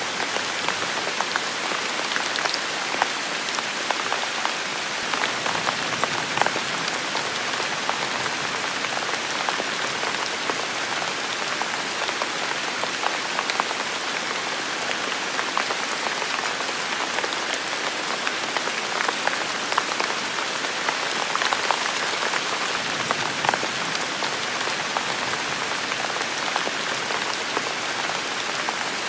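Heavy rain falling steadily, a dense hiss of drops with many small individual drop hits spattering through it.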